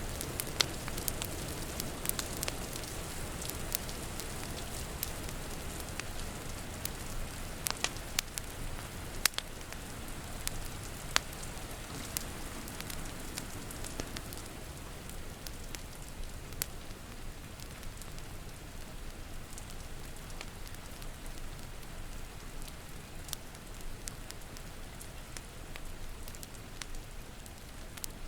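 Steady rain with a wood fire crackling over it: sharp, scattered pops that come often in the first half and thin out later.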